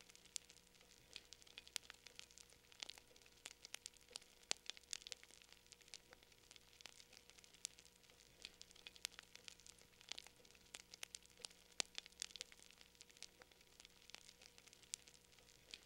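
Wood fire crackling in a fireplace: quiet, irregular sharp pops and snaps, several a second, over a faint hiss.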